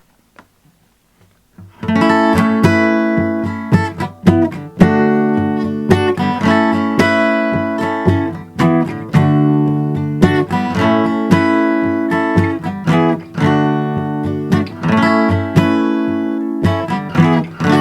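Acoustic guitar strummed in a steady rhythm, the instrumental introduction of a song. It starts about two seconds in.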